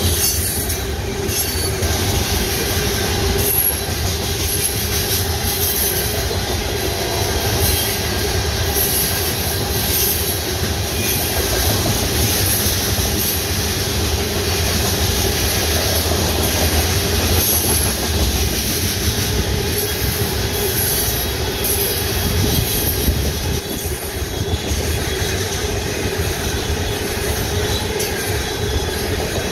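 Tank cars of a freight train rolling past at close range: a steady rumble of steel wheels on the rails, with a steady tone held above it.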